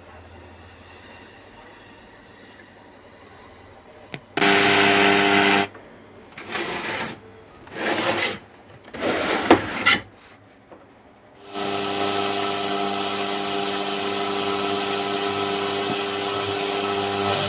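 Sound from the repaired Panasonic RX-CS40 through its newly connected speaker. It plays loudly in a few short stretches with silences between, then plays music steadily for the last third: the dropped 9 V supply is restored and the 'no sound' fault is cured.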